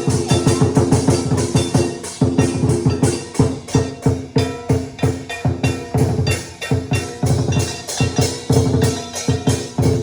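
Vietnamese lion dance (múa lân) percussion music: rapid, steady drum beats, several strikes a second, over a ringing pitched tone.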